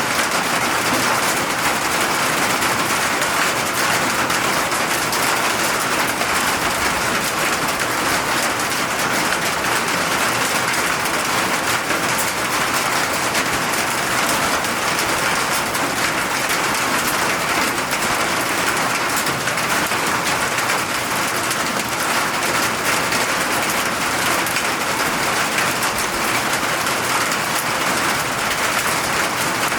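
Steady rain falling, a dense even patter of drops on hard surfaces with no breaks.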